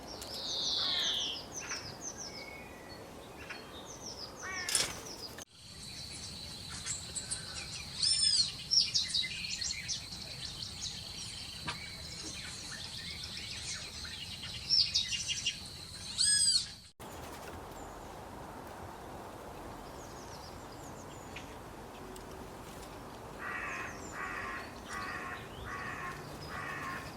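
Wild birds chirping and calling: quick high chirps and trills, changing abruptly twice where clips are spliced, with a steady high whistling tone under the chirps in the middle section. Near the end comes a run of five evenly spaced, harsher calls.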